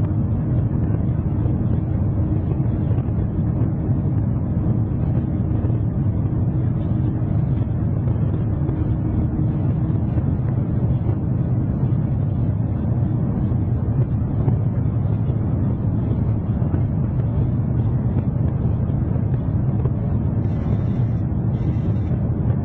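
Steady low rumble of a vehicle in motion, even and unbroken, with a faint steady hum over it for about the first half.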